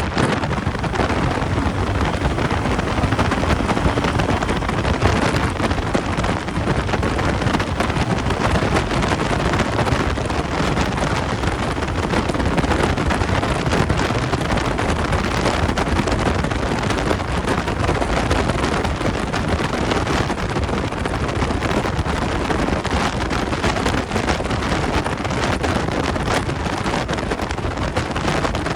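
Steady wind rush on the microphone of a Royal Enfield Meteor 350 motorcycle riding at highway speed, with the bike's running noise underneath.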